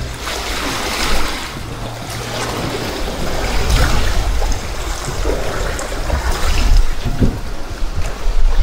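Sea water rushing and splashing along the hull of a sailing yacht under way, over a steady low rumble.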